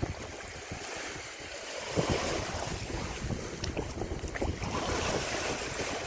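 Wind buffeting the microphone over the sound of sea water and waves, irregular and getting louder about two seconds in.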